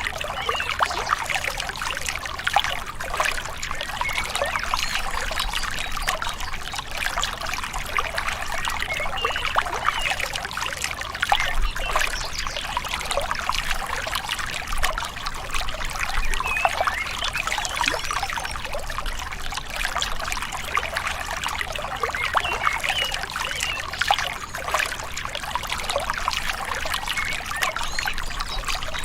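Small river or stream flowing gently over stones, a steady babbling and trickling of water.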